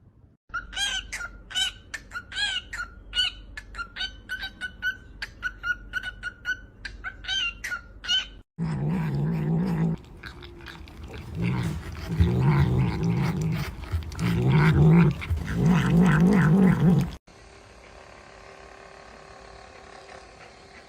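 Pet animal calls in two clips. First a run of quick, high chirping calls for about eight seconds, then a string of loud, low, wavering calls for about eight more. These cut off abruptly to a quiet steady hum.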